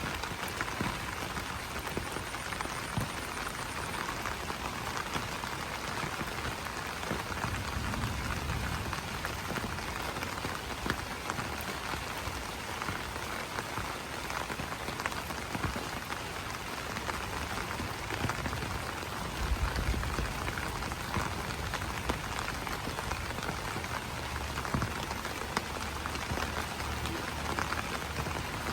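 Steady rain falling on broad banana leaves: an even wash of rain with many small, sharp drop strikes. A soft low rumble swells twice, briefly.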